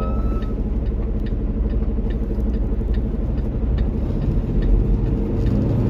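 Semi-truck's diesel engine running steadily, heard from inside the cab with constant road noise while driving.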